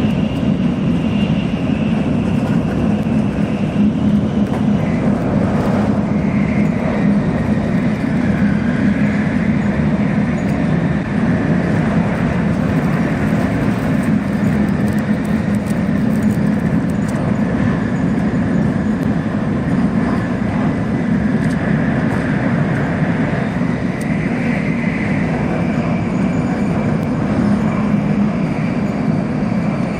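Shinkansen bullet train at speed heard from inside the passenger cabin: a steady, even rumble with a faint high whine that drifts slightly in pitch.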